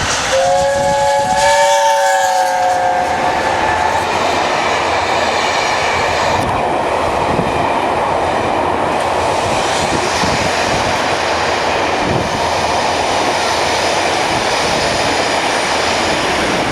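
Train horn sounding a multi-note chord for about three seconds, then a train running with a steady, loud rail noise.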